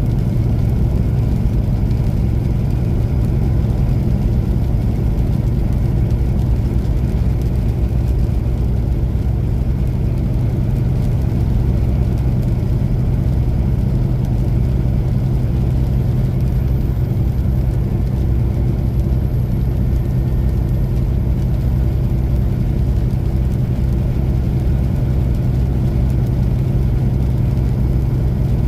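Diesel semi-truck engine running steadily, an even low rumble with no change in speed.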